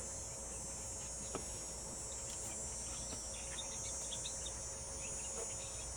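Steady, high-pitched insect chorus running without a break, with a few faint clicks over it.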